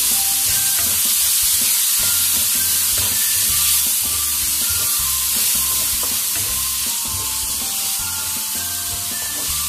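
Chopped tomatoes and onions sizzling as they fry in a metal karahi, stirred with a wooden spatula; the sizzle is steady throughout.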